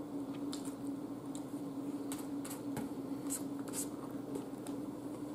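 Close-up mouth sounds of someone chewing a mouthful of spaghetti: scattered small wet clicks and smacks. A steady low hum runs under them.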